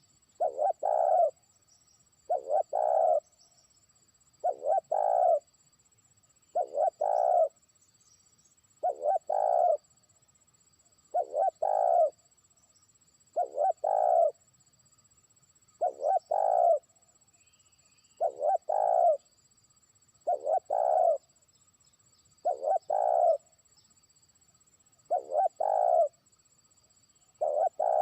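Spotted dove (terkukur) cooing: a short phrase of a few coos, repeated about every two seconds. It is a trained decoy bird calling to rival doves far off.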